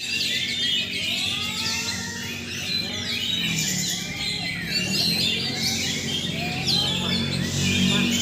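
Oriental magpie-robin (kacer) singing a fast, continuous run of varied sharp whistles and chirps.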